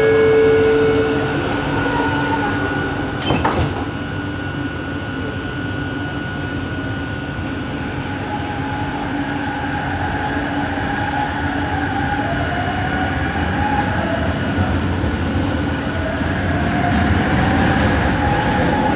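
Bombardier Innovia ART 200 metro train running, heard on board: a steady rolling rumble with a sharp knock about three seconds in, then the linear induction motors' whine, with tones rising as the train gathers speed. This is the motor noise the recording calls weird.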